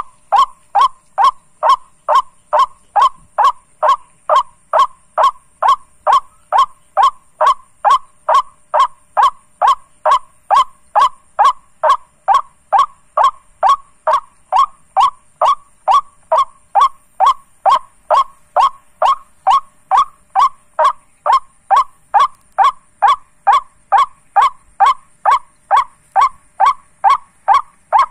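White-breasted waterhen call repeated at an even pace, about two short honking notes a second: the lure call used to draw waterhens in at night.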